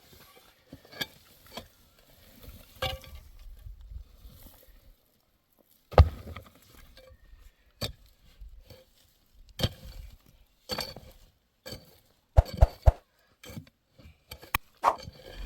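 Irregular knocks, clunks and light clinks of objects being handled and set down, at uneven intervals, with louder knocks about six seconds in and again near the end.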